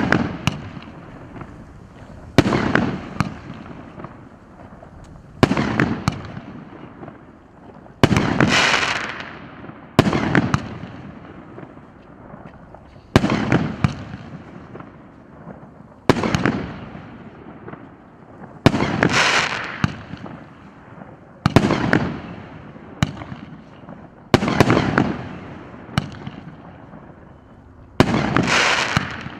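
Multi-shot consumer firework battery firing shot after shot, one about every two to three seconds. Each shot is a sharp bang followed by a crackling tail that fades over a second or two.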